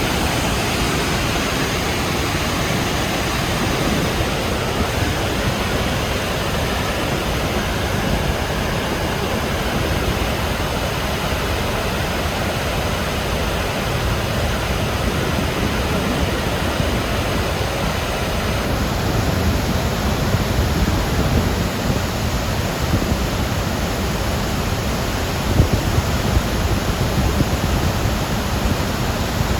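Steady, loud rush of water pouring from Akiba Dam in heavy post-typhoon flow, with a few stronger low surges in the second half.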